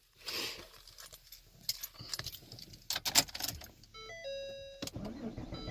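Keys jangling and clicking at the car's ignition, then from about four seconds in a run of short electronic chime tones at changing pitches from the car's dashboard as the ignition is switched on, before a cold start.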